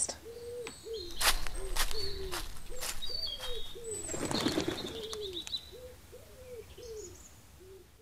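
Birdsong: a run of short, low cooing notes about twice a second, with higher chirps and whistles over them. There are several sharp clicks in the first few seconds and a brief rush of noise about four and a half seconds in, and it all fades out near the end.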